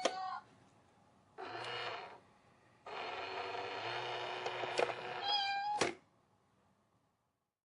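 Domestic cat meowing: a short meow, then a long drawn-out meow of over two seconds, then a brief final meow that stops abruptly.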